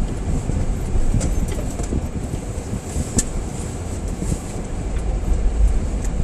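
Car moving on a snow-covered road, heard from inside the cabin: a steady low rumble of engine and tyres, with a few sharp clicks scattered through it.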